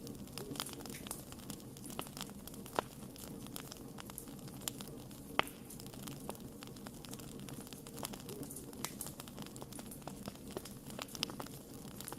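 Wood fire burning with irregular crackles and pops over a low steady rumble of flame; two sharper pops stand out, about 3 and 5 seconds in.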